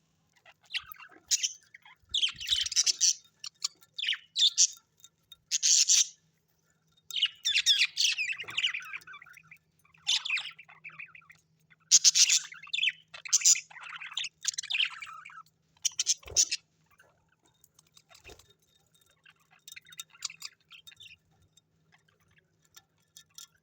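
Parrots chirping and squawking in short, irregular bursts of high-pitched calls, growing fainter and sparser for the last several seconds.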